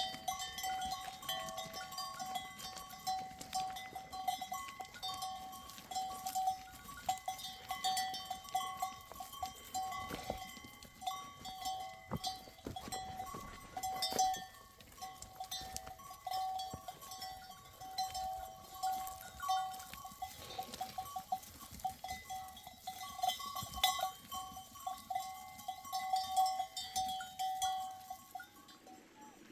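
Bells on a flock of goats and sheep clanking unevenly and almost without pause, the same few ringing tones struck again and again, with scattered small knocks.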